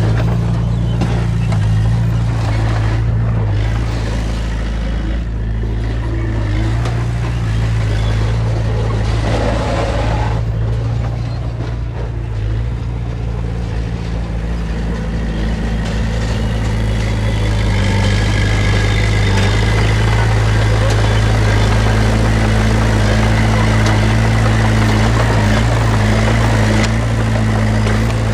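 Heavy earthmoving machine's diesel engine running steadily and loudly, growing louder a little past halfway.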